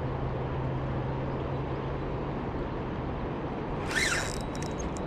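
Steady outdoor background noise with a low engine drone that fades out about three seconds in, and a brief high chirp about four seconds in.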